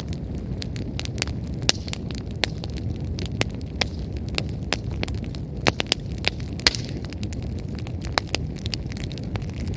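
Wood fire burning, with frequent sharp, irregular crackles and pops from the firewood over a steady low rush of flame.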